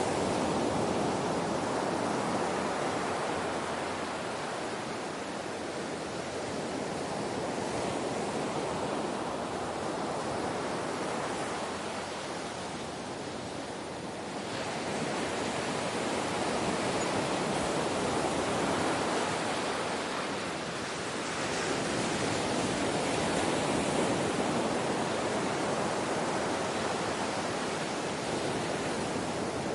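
Ocean surf washing continuously, swelling and easing in slow surges, with a brief lull about halfway through.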